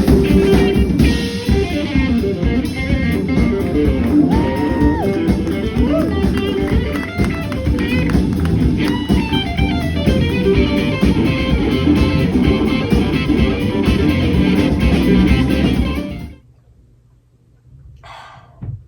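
Upbeat band music with guitar and drums, stopping abruptly near the end and leaving quiet room sound.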